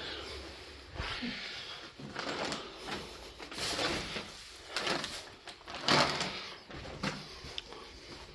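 Footsteps and scuffing over a debris-strewn floor: irregular crunches and scrapes, roughly one every half second to a second.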